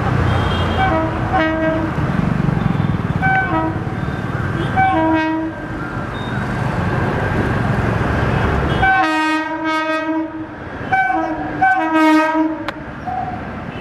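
Indian Railways electric locomotive horn sounding in a series of short toots over the rumble of a running train. About nine seconds in the train noise drops away, and several louder, clearer horn blasts follow.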